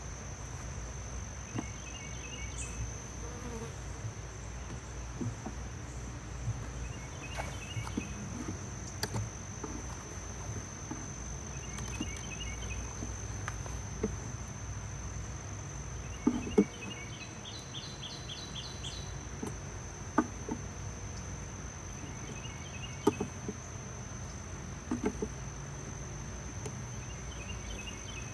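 Honey bees buzzing steadily around an open hive, with insects chirping in short pulsed phrases about every two seconds and a thin steady high tone. Occasional sharp knocks and scrapes of a hive tool cut through, the loudest a little past halfway.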